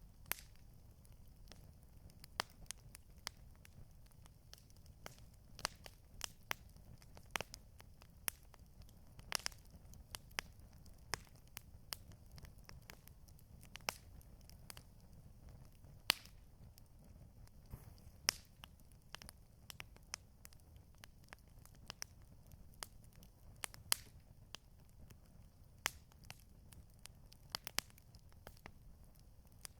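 Campfire crackling: irregular sharp pops and snaps, a few a second, over a low steady rumble.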